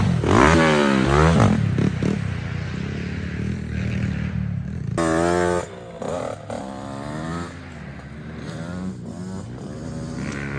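Dirt bike engine revving up and down in quick rises and falls, loudest in the first second and a half and again around five seconds in, then settling to a quieter, lower drone.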